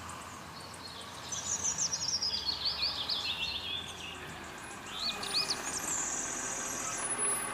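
Birds chirping in quick, short trills over a steady low outdoor background, with the faint low hum of a garbage truck's engine as it pulls up.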